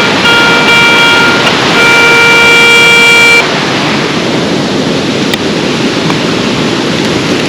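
Garrett Ace 250 metal detector sounding two steady electronic tones, each about a second and a half long, the signal of a buried metal target. They stop about three and a half seconds in, and the constant rush of a waterfall carries on.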